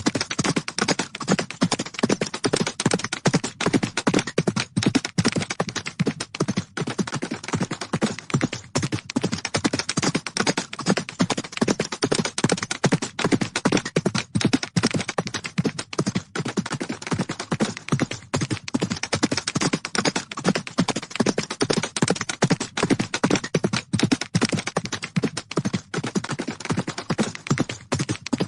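Horses galloping: a rapid, unbroken drumming of hoofbeats.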